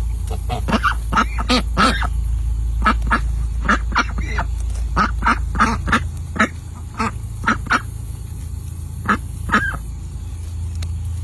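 Ducks quacking in short, irregular calls, many in quick succession at first and fewer later, over a steady low rumble.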